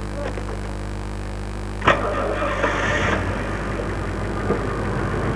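A car engine running steadily, with a sharp knock about two seconds in followed by about a second of rushing noise.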